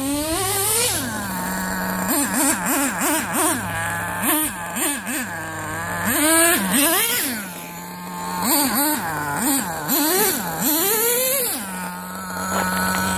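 Dynamite Mach 19 nitro engine of an RC truck blipped through many short bursts of throttle, its pitch rising and falling each time between a steady idle, and settling back to idle near the end. The truck has an exhaust leak from broken zip ties, which the owner says made the engine run worse.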